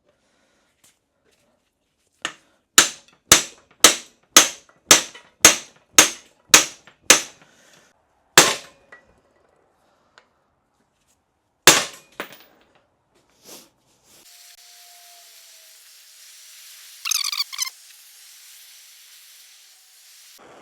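Hammer blows on the rusted U-joint bearing cap in a 2013 Ram 2500's front axle yoke, driving the joint out: a run of about ten sharp metallic strikes, roughly two a second, then two single blows. After that a steady hiss begins, with a brief high squeal near the end.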